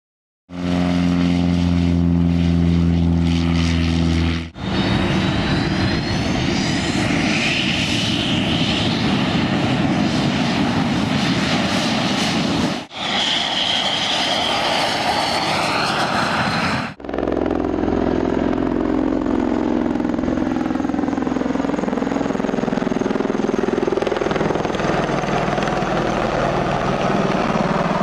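Aircraft engine noise in several loud stretches that cut off abruptly into one another. The first stretch is a steady droning tone. Later stretches are a noisier roar with faint whistling tones that glide up and down.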